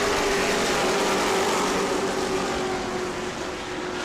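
A pack of racing trucks' engines running hard together at speed, a loud, steady drone of engine tones that eases a little near the end.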